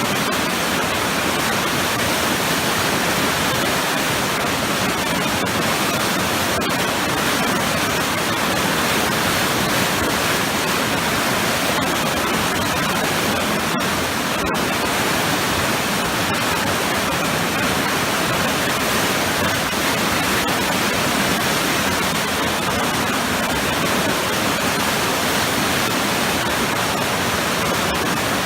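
Waterfall pouring into churning, turbulent water: a loud, steady, unbroken rush with most of its energy in the middle and upper range.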